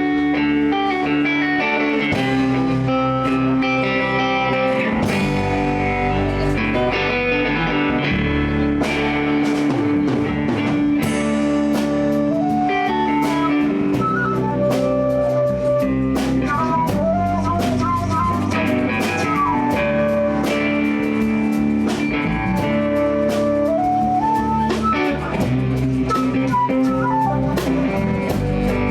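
Live blues band playing an instrumental passage, with guitar over a drum kit.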